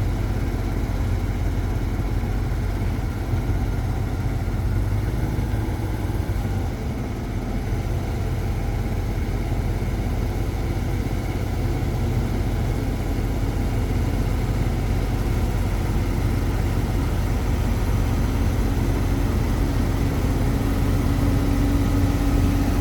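A 2000 GMC C7500 truck's 8-liter gasoline engine running steadily at idle. Near the end a steady hum joins in and it gets a little louder.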